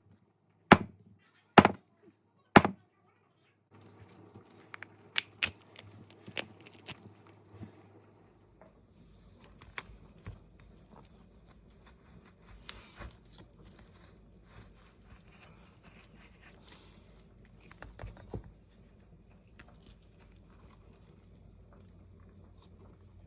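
A young coconut being struck hard to crack it open: three sharp knocks about a second apart, then a few lighter knocks, and afterwards faint clicks and rustling as it is handled.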